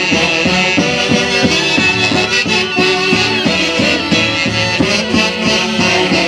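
Instrumental break of a live Andean folk orchestra: wind instruments play the melody over a steady bass beat, with no singing.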